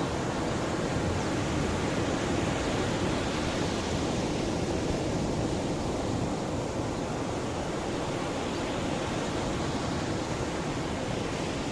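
Mediterranean sea waves washing against the shore: a continuous rushing noise, heaviest in the low range, easing slightly partway through.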